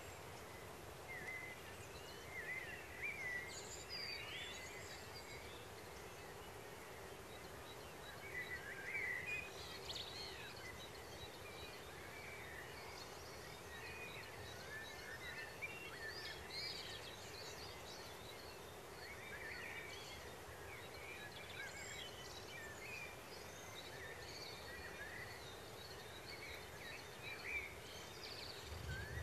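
Faint outdoor ambience with scattered short, high bird chirps throughout, over a steady low hum.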